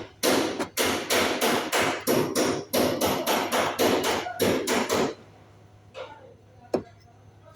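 Rapid hammer blows, about four strikes a second, each with a short ring. They stop suddenly about five seconds in, and one sharp click follows near the end.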